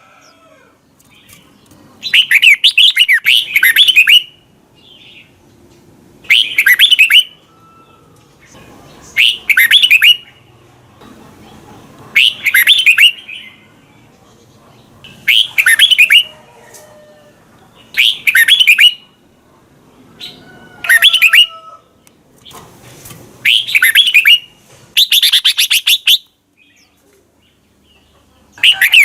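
Red-whiskered bulbul singing: short, quick warbled phrases repeated about every two to three seconds, with brief quiet gaps between them.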